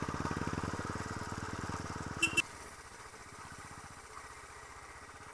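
Motorcycle engine running with a rapid, even beat, then dropping to a much quieter, steady running about two seconds in, just after a brief high-pitched chirp.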